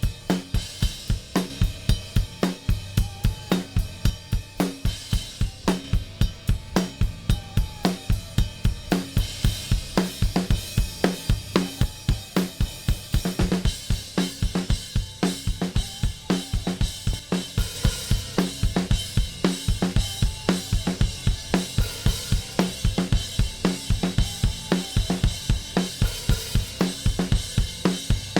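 Recorded drum kit (kick, snare, hi-hats and cymbals) playing a steady driving beat through an SB4000 stereo bus compressor, an SSL 4000-style design, set for heavy compression that squashes the kit. The cymbals grow brighter about halfway through.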